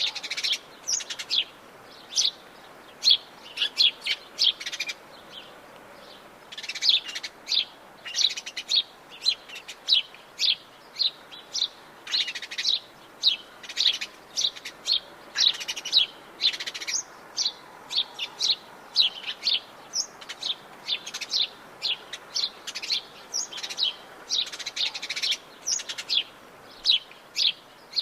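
Several birds chirping and singing in Brazilian Atlantic Forest, with many short, quick high notes throughout and a faint steady hiss behind them.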